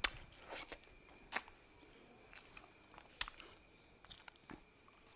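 Close-miked eating sounds: a person chewing and biting into fish, with a handful of sharp, crisp clicks and smacks, the loudest right at the start and about three seconds in.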